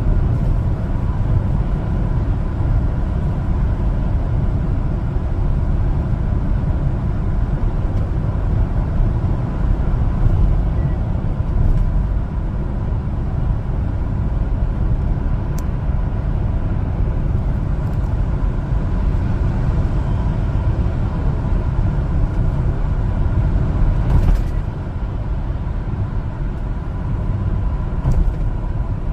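A 1-ton LPG cargo truck on the move: a steady low engine and road rumble with a faint steady high tone, easing slightly about 24 seconds in.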